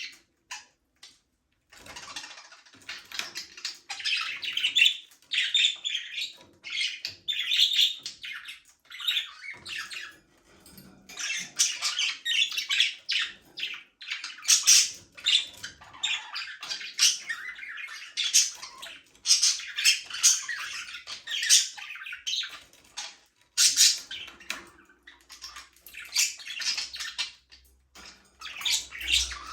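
Several budgerigars chattering and chirping in quick bursts of warbling calls mixed with sharp squawks, starting about two seconds in after a short near-silent gap.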